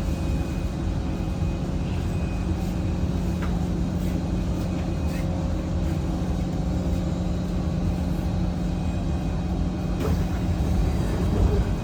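Steady hum and rumble inside a Kawasaki Heavy Industries–Kinki Sharyo C151 train standing at a station, from its onboard equipment running while stopped, with a faint steady whine over it.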